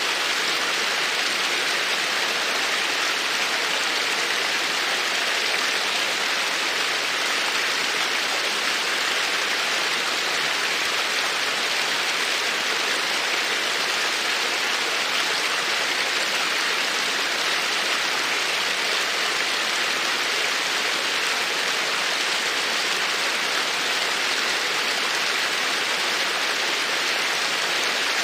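Campfire burning with a steady, dense crackle and hiss, even throughout with no single loud pop standing out.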